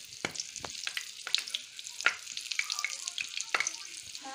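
Batter-coated onion rings frying in hot oil in a pan: a steady sizzling hiss with many scattered sharp pops and crackles.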